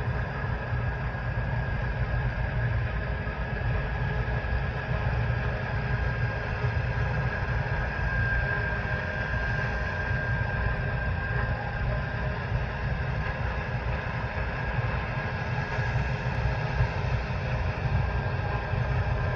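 Heavy harvest machinery running steadily under load: a deep diesel rumble with a constant high whine over it.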